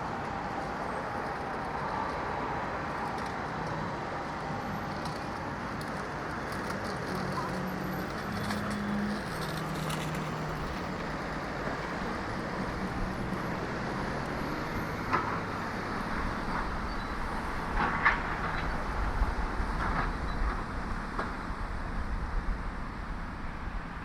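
City street traffic heard from a moving bicycle: a steady road-noise wash with a motor vehicle passing in the middle and a heavier low rumble in the second half, plus a few sharp clicks.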